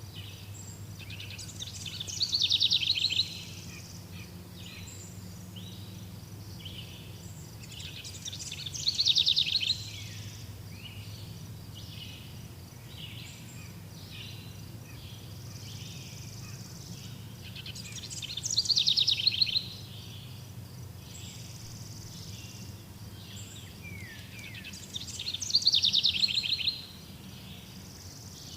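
Birds singing: one bird repeats a loud, rapid, high song phrase four times, each about one and a half seconds long and several seconds apart. Softer calls from other birds fill the gaps, over a faint low hum.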